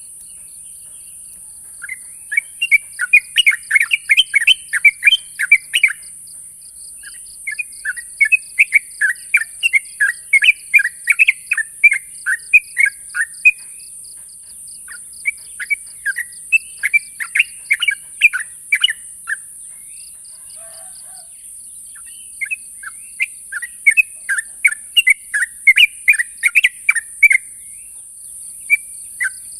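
Yellow-vented bulbul (trucuk) giving its loud challenge call to a rival: four phrases of rapid, bubbly chattering notes, each lasting a few seconds, with short pauses between them.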